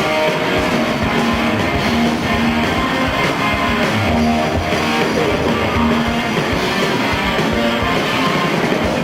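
Rock band playing live, with loud electric guitars and drums driving a steady beat in an instrumental passage between sung verses.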